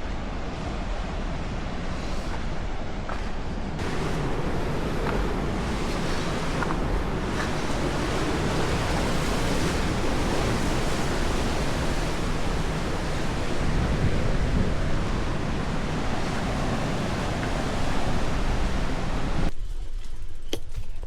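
Wind buffeting the microphone of a camera carried on a moving bicycle: a steady loud rush, strongest in the lows. It drops away suddenly near the end.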